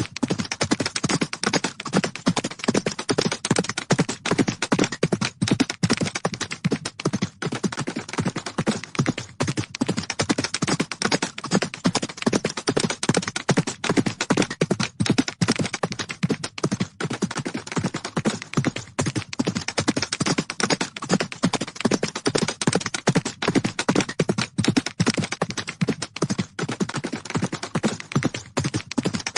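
Horses galloping: rapid, dense, continuous hoofbeats.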